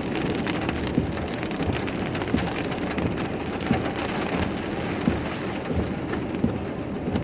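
Heavy thunderstorm rain falling steadily, with many small scattered sharp taps of drops hitting a surface.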